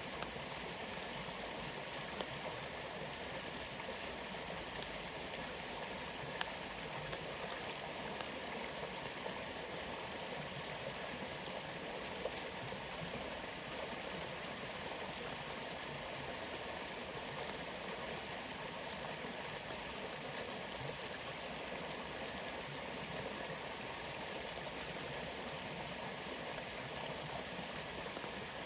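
Steady rush of flowing water from a rainforest waterfall, with a few brief, sharp ticks of drops heard above it.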